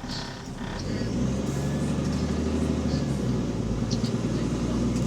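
City bus diesel engine running, heard from on board, growing louder about a second in as it takes power and then holding a steady low drone; the bus has a leaking exhaust.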